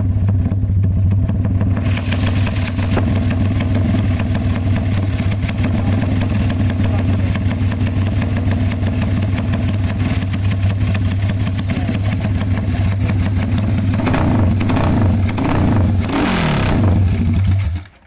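Engine running through a BMS X-one aftermarket exhaust, idling steadily with a deep note. It is blipped a few times near the end, the revs falling back each time, then cuts off suddenly.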